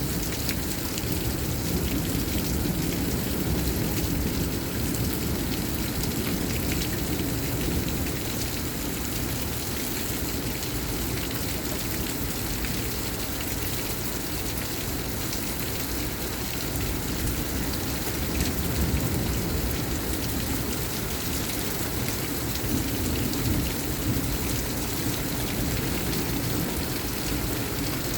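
Heavy rain pouring steadily in a severe thunderstorm, with a constant low rumble underneath and no sharp thunderclaps.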